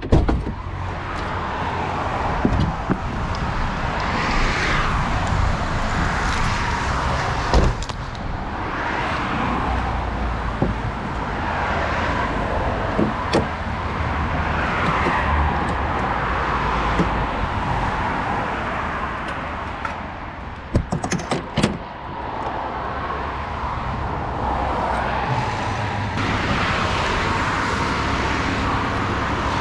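BMW E36 being driven: steady engine and road noise, the engine note rising and falling repeatedly, with a few sharp clicks and a short run of clicks about 21 seconds in.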